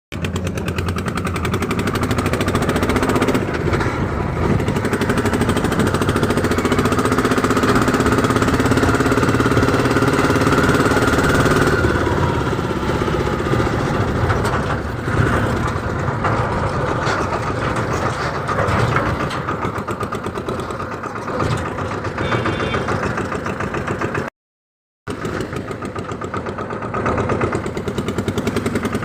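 Massey Ferguson tractor's diesel engine running steadily, its sound cutting out completely for about half a second near the end.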